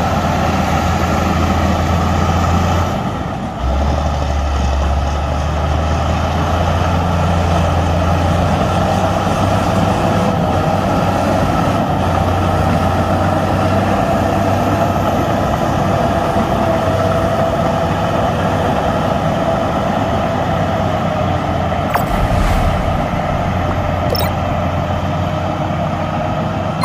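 Heavy diesel earthmoving machinery running continuously: a deep engine drone with a steady whine over it, easing briefly about three and a half seconds in.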